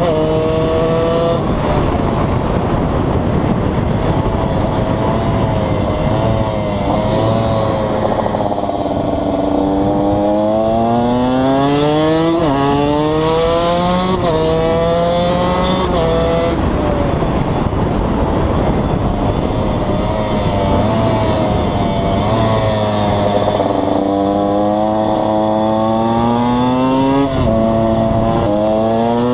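KTM 125 EXC two-stroke single-cylinder engine under way, revving up and shifting: its pitch climbs and then drops sharply at each gear change, several times, over a steady rush of wind noise.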